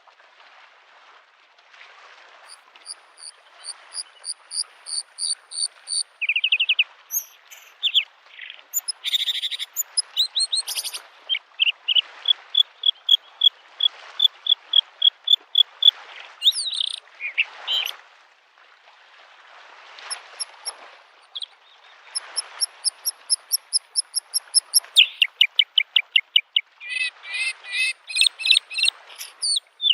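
A bluethroat singing: varied phrases, each a quick run of repeated high notes or trills, with short pauses between them. Small waves lap on the lakeshore, a soft wash that rises and falls beneath the song.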